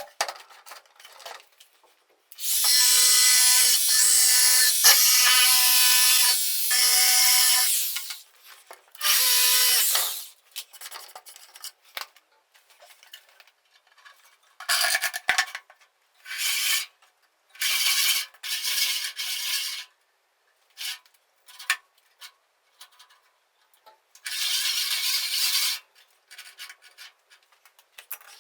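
Wood being cut on a homemade band saw driven by a washing machine motor, in repeated cuts: one long cut of about six seconds, then several short ones, with a faint whine running through the noise of the cut.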